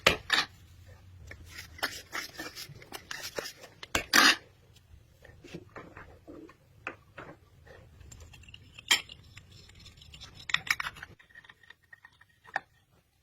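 Scattered clinks, taps and short scrapes of small hard objects being handled, over a low hum that stops about eleven seconds in.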